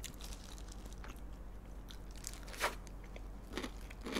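Close-miked chewing of crispy fried chicken (BHC Galbi-Leo), a few sharp crunches among softer chewing, the loudest about two and a half seconds in.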